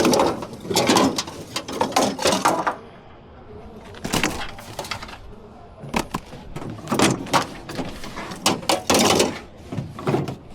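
Car lockout tools scraping and knocking against a car door, in irregular bursts of clicks and scrapes with short pauses between them.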